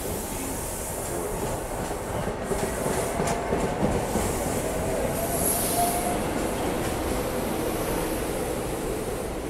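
SEPTA Regional Rail Silverliner IV electric train pulling into the station and rolling past the platform: a steady rumble of wheels on rail, with a brief faint high wheel squeal a little past halfway.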